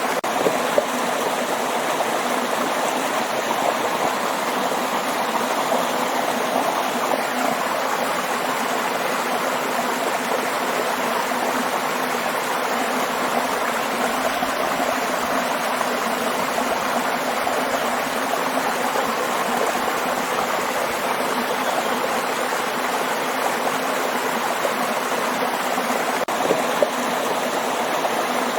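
Waterfall: a steady, unbroken rush of falling and flowing water.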